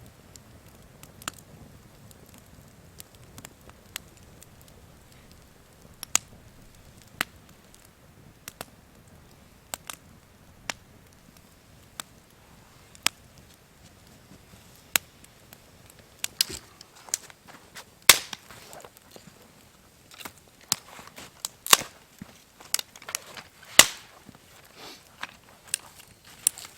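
Wood campfire crackling and popping, with irregular sharp snaps that come sparsely at first and grow thicker and louder in the last third.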